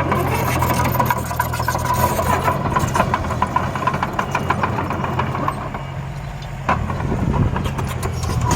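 Engine of a small dump truck or bulldozer running steadily, with rattling clatter over it. There is a sharp knock about two-thirds of the way through, after which it runs a little louder.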